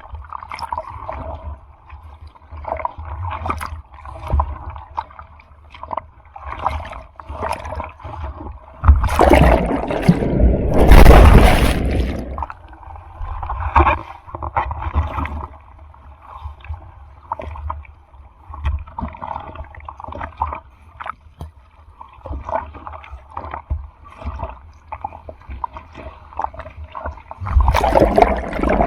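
Sea water sloshing and splashing close by in choppy surf, in irregular bursts. About nine seconds in there is a loud rushing surge of breaking water lasting a few seconds, and another starts near the end.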